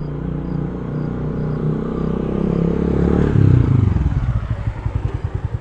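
Motor vehicle engine running, building up in revs, then dropping back about two-thirds of the way through to a pulsing idle.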